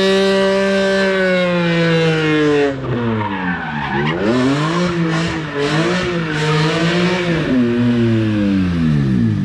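Car engine running hard at high revs, held steady for the first few seconds, then dipping and rising several times as the throttle is worked, with tyres squealing over it: a burnout or drift.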